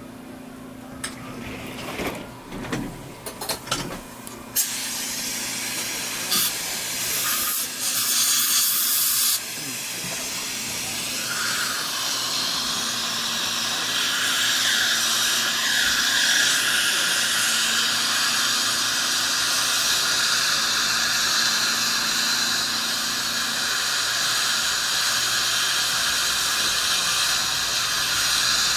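Dental equipment hissing steadily, after a few clicks and knocks in the first few seconds. The hiss grows louder for about two seconds around eight seconds in.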